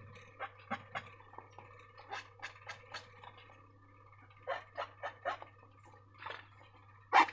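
Slime being handled and squished: an irregular series of short sticky squelches and clicks, with a faint steady low hum under them.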